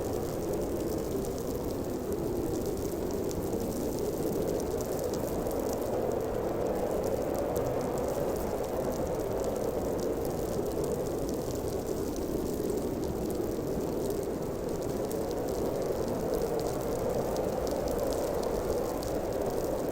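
Strong snowstorm wind blowing steadily: a deep, even rush that swells and eases slightly, with a faint crackling hiss above it.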